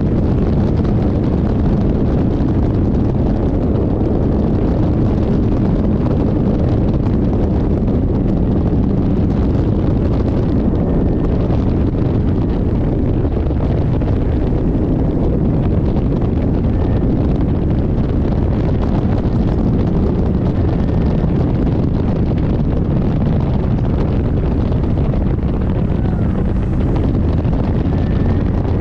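Steady wind buffeting the microphone, a loud low rumble that stays even throughout.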